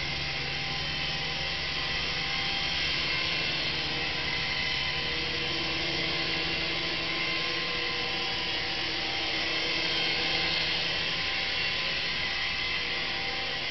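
Syma S109 Apache toy RC helicopter in flight: its small electric motors and rotors give a steady high whine with small shifts in pitch as the throttle changes.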